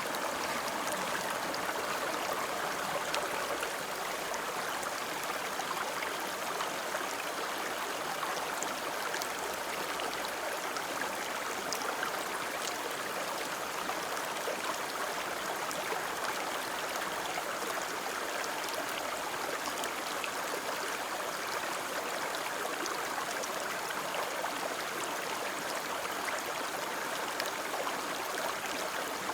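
Steady rushing of a flowing river, with faint small splashes scattered throughout.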